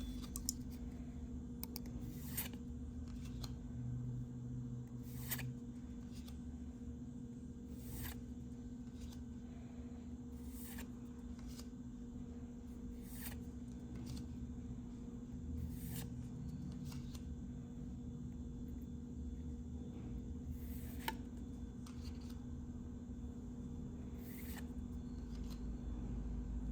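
Yu-Gi-Oh trading cards being flipped through one at a time, with a short crisp card snap about every two and a half seconds over a steady low hum.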